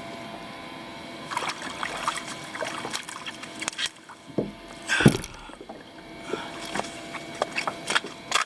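Water trickling and dripping around a kayak as it is handled at the shore, with scattered light clicks and knocks and one louder knock about five seconds in.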